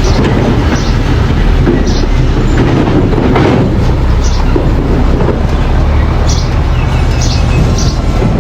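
Mini bulldozer working: its engine runs steadily with a loud low drone, and short high squeaks come now and then.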